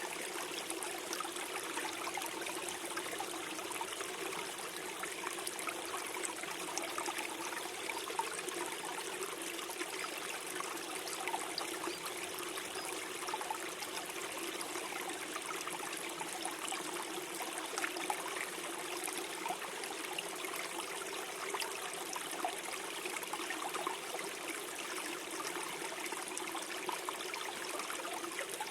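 Small forest stream flowing and gurgling steadily over stones, a continuous even rush of water with small splashes.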